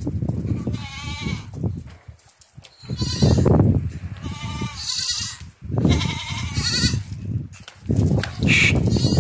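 Sojat goat kids bleating: about four quivering, wavering calls over a low rumbling noise.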